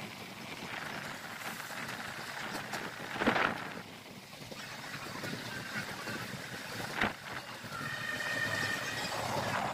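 Train running along the track, heard from an open carriage doorway: a steady rumble of wheels on rail, with two short, louder clatters, one about three seconds in and one about seven seconds in.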